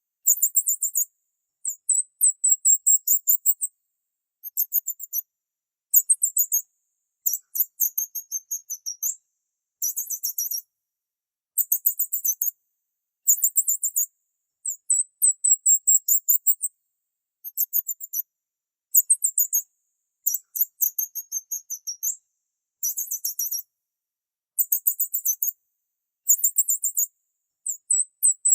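Bird chirping in very high-pitched, rapid trains of notes, each burst lasting about half a second to two seconds, with dead silence between bursts and a new burst every second or two.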